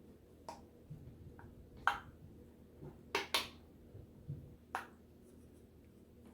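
A metal utensil clinking and knocking against a dish while a chicken pot pie is cut and a slice served: about half a dozen short, sharp clinks with a few softer thuds between them.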